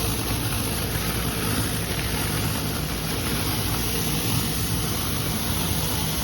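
Pressure washing equipment running steadily: a low engine drone under an even, broad hiss.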